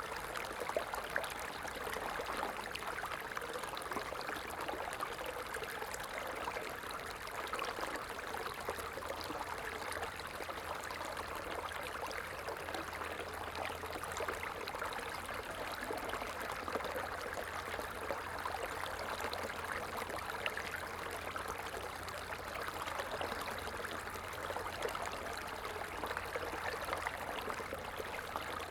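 A small stream running steadily, a continuous rush of water with fine splashing and trickling.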